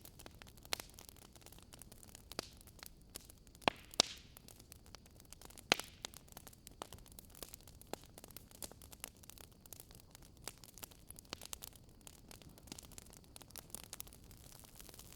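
Wood fire crackling in a fireplace: scattered sharp pops and snaps over a faint steady hiss, with a few louder pops about four and six seconds in.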